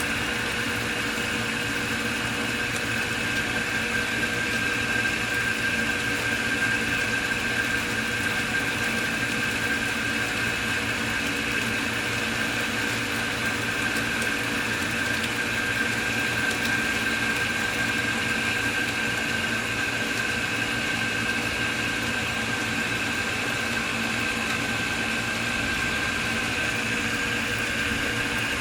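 A steady mechanical hum with a few held tones over a background hiss, unchanging throughout, with no claps or sudden strikes.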